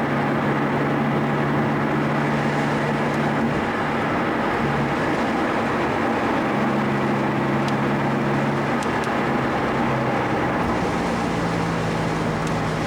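A car's engine drone and road noise heard from inside the cabin while driving at a steady pace. The engine note shifts in pitch a few times.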